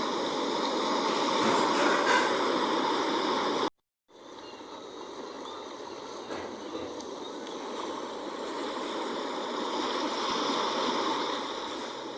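Sea water washing in a steady rush, with no distinct wave breaks. It cuts to silence for a moment about four seconds in, then comes back quieter and slowly swells again.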